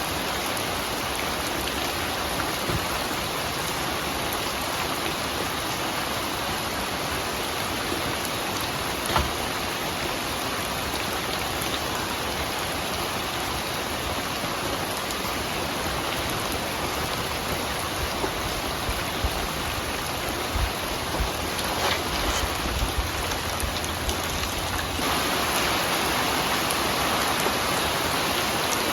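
Steady rain falling, with scattered heavier drops striking a surface now and then. The rain grows a little louder near the end.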